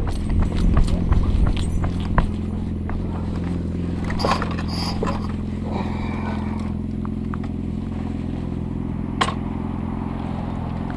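Motorcycle engine idling steadily, with scattered clicks and scrapes of handling.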